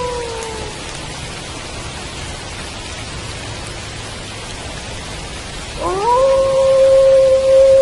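Wolf howling over steady rain. One howl trails off and falls in pitch in the first second. About six seconds in, another starts with a quick upward swoop and then holds one long steady note.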